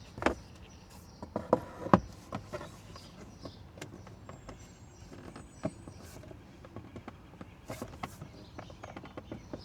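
Scattered clicks and knocks of plastic dash trim being handled and pressed into place, the sharpest about two seconds in.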